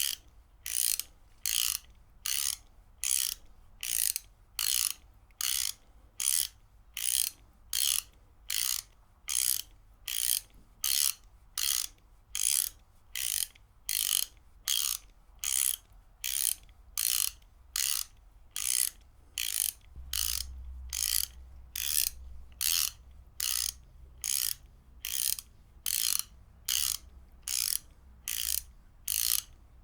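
Ratchet wrench being worked in short, even strokes, about two a second, each stroke a quick burst of pawl clicks.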